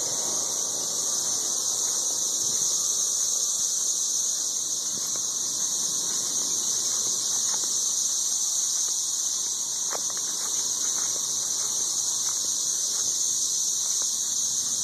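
Massed chorus of 13-year periodical cicadas: a ridiculously loud, steady, high-pitched whine that never lets up.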